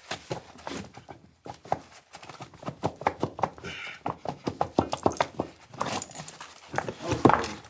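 Hard objects knocking and clicking against each other in a fast, irregular series of taps, with a louder cluster of knocks near the end.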